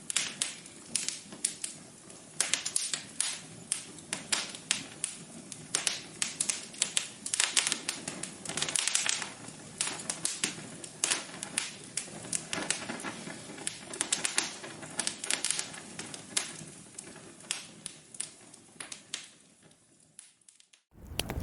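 Wood fire crackling in a fireplace: irregular sharp pops and snaps over a soft hiss, thinning out and dying away near the end.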